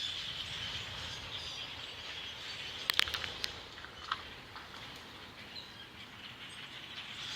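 A distant flock of hundreds of blackbirds chattering in the trees, a steady high massed din with a few sharper chirps about three seconds in.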